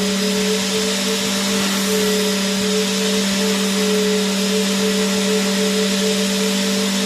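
Vacuum cleaner running continuously: a steady motor hum under an even rush of air noise, with no change in pace or pitch.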